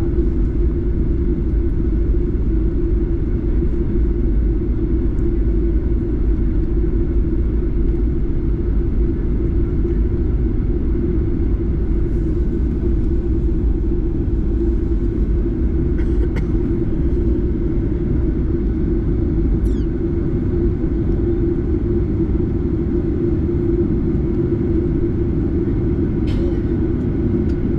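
Steady, loud, low rumble of a Boeing 737-8's CFM LEAP-1B turbofan engines heard inside the cabin from a seat near the engine.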